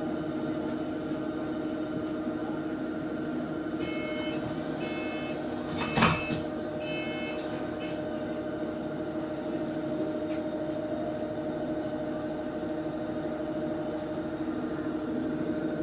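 Inside a bus: the steady drone and hum of the engine and hydraulic cooling fan, with short repeated electronic beeps from about four to seven seconds in and a loud sudden burst near the middle, typical of the doors working at a stop.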